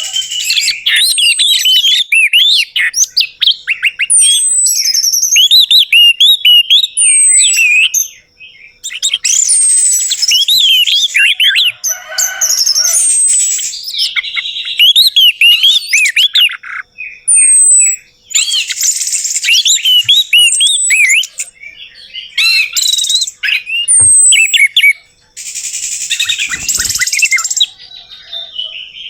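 Orange-headed thrush singing a long, varied song of fast whistled notes, high downslurred whistles and harsher chattering stretches. The song comes in bouts with brief pauses between them.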